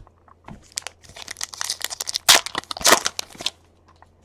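A trading-card pack wrapper being torn open and crinkled, in a run of crackling rips that is loudest in the second half.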